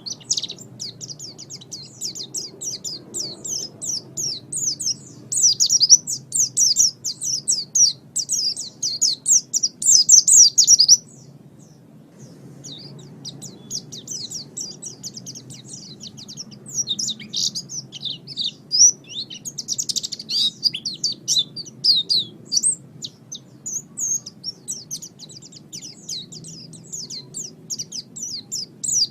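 Pleci (white-eye) singing a long, fast, high twittering song. It is loudest in a run that breaks off sharply about eleven seconds in, then starts again after a short pause.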